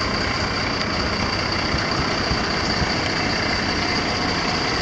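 Metro train running through the level crossing: a steady loud rush of wheel and track noise, with the crossing alarms sounding one steady high-pitched tone over it.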